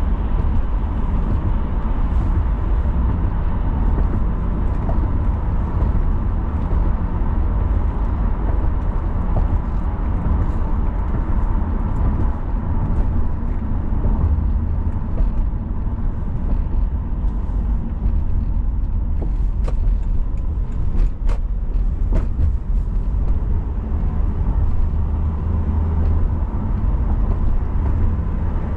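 Car driving on city roads: a steady low rumble of engine and tyre noise, with a few light clicks about twenty seconds in.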